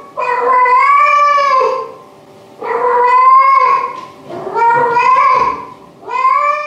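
Female and male domestic cats caterwauling: mating calls as about four long, drawn-out yowls one after another, each rising and then falling in pitch.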